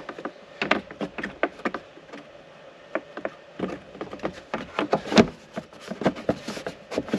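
Irregular clicks, knocks and rubbing of tractor parts being handled and pushed back into place during reassembly, with a heavier knock about five seconds in.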